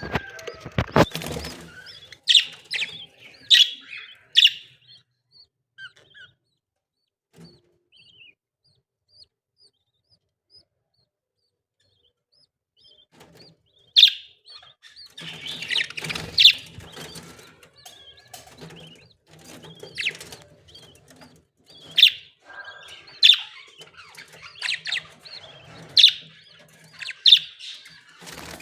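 Baby parrots chirping: short, high squeaks repeated at irregular intervals, with a near-quiet stretch of several seconds in the middle.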